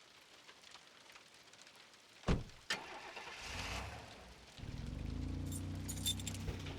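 Two sharp clicks, a short rattle, then a car engine starts about two-thirds of the way in and runs at a steady low idle.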